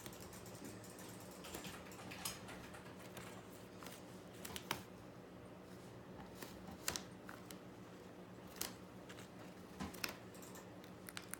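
A parrot at a bag of chips: scattered sharp crinkles and crunches, one every second or so, over a steady low hum.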